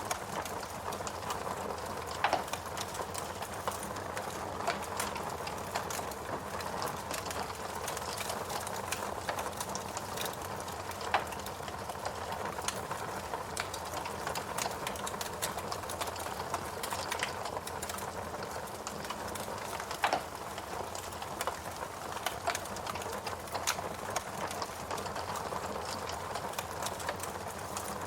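Wood fire burning in a fireplace: a steady hiss with constant small crackles and a few louder pops, about two seconds in, again near the middle, and about twenty seconds in.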